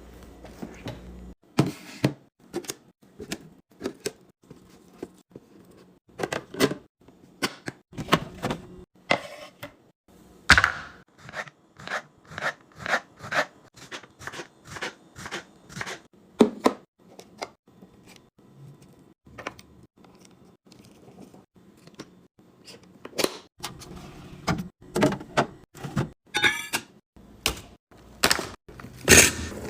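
Containers and packaged food being handled and set down while restocking a fridge: a long run of irregular knocks, clacks and thunks.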